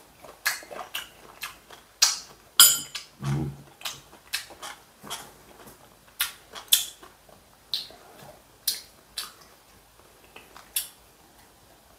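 A man chewing a mouthful of spring shoots with open-mouthed smacking: irregular short wet clicks, a few a second, with a fuller mouth sound about three seconds in.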